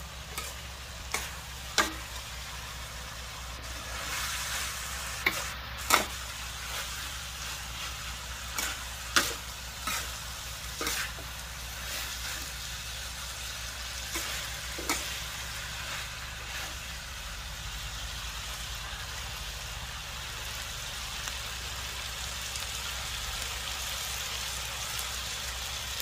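Chopped eel stir-frying in an aluminium wok: a steady sizzle, with the metal spatula knocking and scraping against the wok about ten times in the first half.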